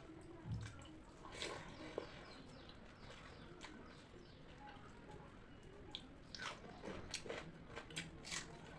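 Close-up eating sounds of pakhala bhata, watered rice with puffed rice and crunchy sides: quiet chewing and crunching, with a cluster of sharper mouth clicks near the end.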